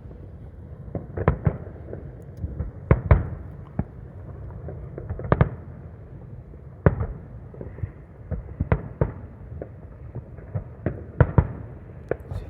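Fireworks bursting in an irregular series of sharp bangs over a low rumble, with the loudest reports about 1, 3, 5.5, 7 and 11 seconds in, some in quick pairs.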